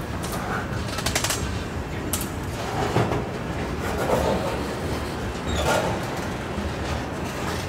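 Freight train of open hopper and tank cars rolling past on the main line: a steady rumble of steel wheels on rail with irregular sharp clacks, a quick cluster of them about a second in and a few louder knocks later.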